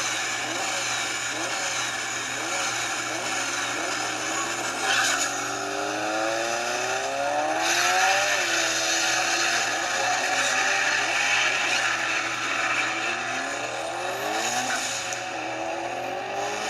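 Drag race cars accelerating hard down the strip: engine pitch climbs and drops back at each gear change, several times over.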